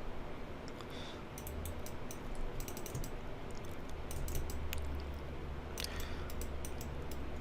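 Computer keyboard keys and mouse buttons clicking at an uneven pace, over a low steady hum that grows stronger about four seconds in.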